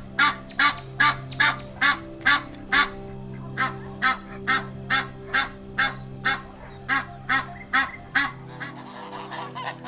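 Goose honking in a quick, regular series, about two or three loud honks a second, with a short pause about three seconds in. The honks stop a little before the end, over steady background music.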